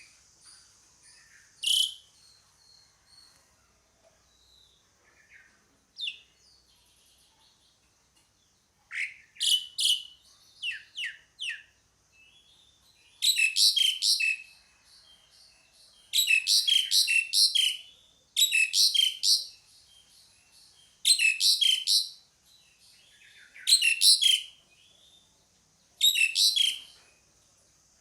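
Javan pied starling (jalak suren) calling, the call the uploader labels a female calling a male. Scattered single chirps come first. From about halfway on the bird gives a run of short, rapid, shrill note bursts, each about a second long and repeated every two to three seconds.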